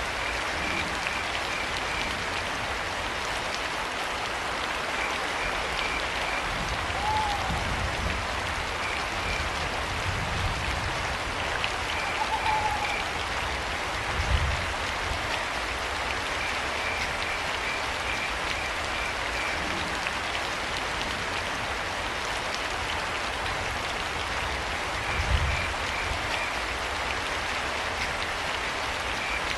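Steady rain falling, with crickets chirping in short repeated trains of pulses every few seconds. Two brief rising-and-falling calls come early on and mid-way, and two low thumps stand out about halfway through and near the end.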